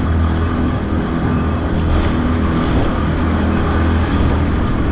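Skiff's outboard motor running steadily at cruising speed, a constant low hum that holds an even pitch.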